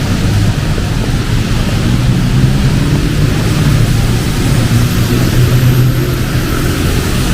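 Heavy rain hissing steadily under a continuous low rumble, the sound of a city street in a downpour.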